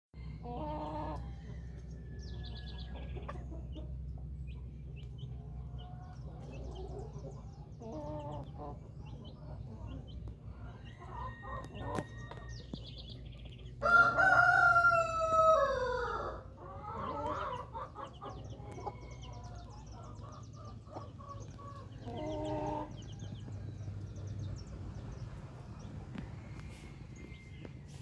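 Chickens clucking and calling on and off, with a rooster crowing loudly once about halfway through: one long call that drops in pitch at the end. Faint high chirps and a low steady hum sit underneath.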